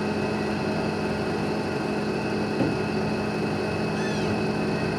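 Boat engine running at a steady drone. A single sharp knock comes a little past halfway, and a couple of short high chirping calls are heard near the end.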